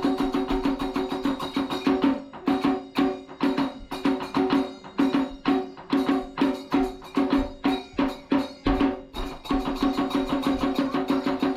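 Kagura festival music: a drum struck in quick, steady beats over a held, pitched melodic line.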